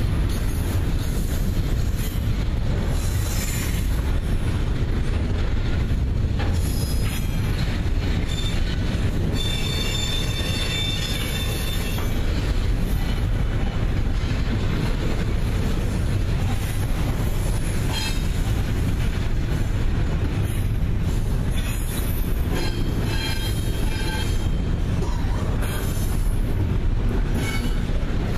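Double-stack container train rolling past: a steady rumble of freight car wheels on rail, with high-pitched wheel squeal that comes and goes, strongest about ten seconds in and again past twenty seconds.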